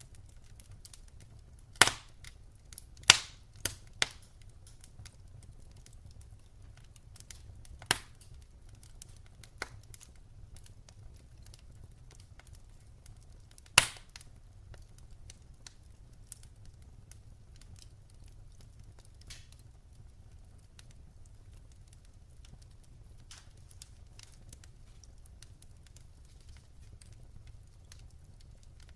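Wood fire burning in a fireplace, crackling with scattered small ticks and a few loud sharp pops: a cluster in the first few seconds, one about eight seconds in and one near the middle, over a faint low rumble.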